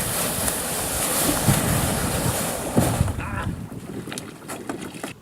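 Wind rushing on the microphone, with a few sharp knocks, dying down after about three seconds.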